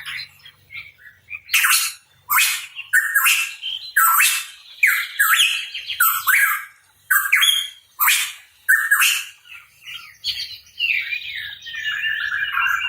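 A pitohui calling: a long run of short, harsh notes about half a second to a second apart, turning into a faster, continuous chattering warble in the last couple of seconds.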